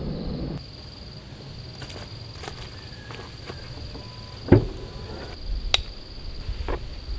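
Quiet outdoor ambience with a steady thin high-pitched drone. A single sharp knock comes about four and a half seconds in, followed by a couple of lighter clicks, like gear being handled or set down.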